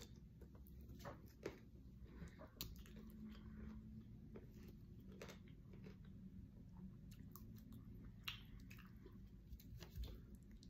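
A person chewing food with the mouth close to the microphone, faint, with scattered light clicks and taps, likely from a plastic fork against the food container.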